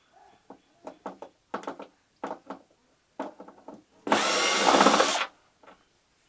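Cordless power screwdriver running for about a second, about four seconds in, backing out a screw from the flat screen TV's casing. Light clicks and taps of handling come before it.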